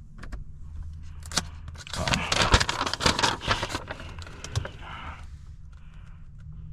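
Clicks, scrapes and rustling of small objects being handled inside a car, densest between about two and four seconds in, over a low steady hum.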